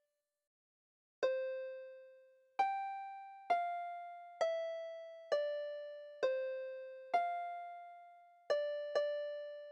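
A slow instrumental melody played one note at a time, each note struck cleanly and left to ring and fade. It starts after about a second of silence, with notes coming roughly once a second and two close together near the end.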